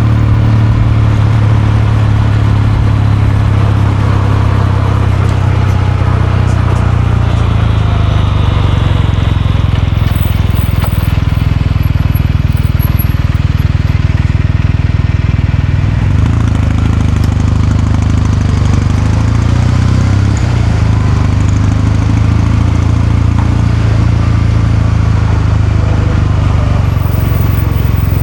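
Kawasaki Meguro K3's air-cooled 773 cc parallel-twin engine and exhaust running at a steady, even pace under way, its pitch shifting slightly a couple of times past the middle.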